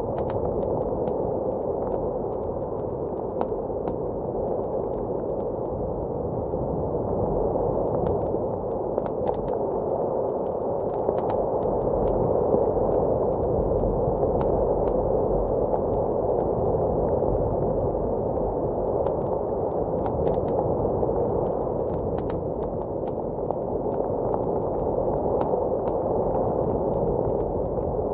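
Fireplace crackling with scattered sharp pops over the steady, muffled rush of blizzard wind.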